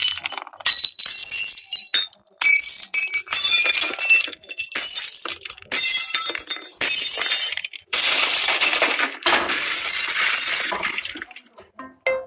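A ringtone made of glass shattering over and over: about eight crashes in quick succession, each followed by the tinkling ring of falling shards, with short gaps between them.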